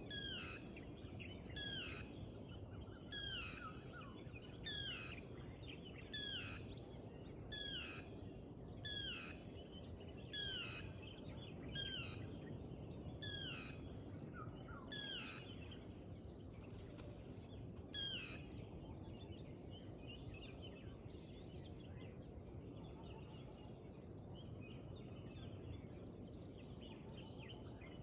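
A forest bird repeating one short call, a quick note sweeping steeply downward, about every second and a half; about a dozen calls, then it stops roughly two-thirds of the way in. Under it runs a steady high-pitched insect drone and a low outdoor background hiss.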